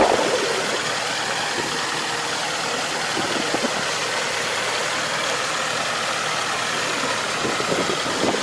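Farm machine's engine running steadily at an even speed.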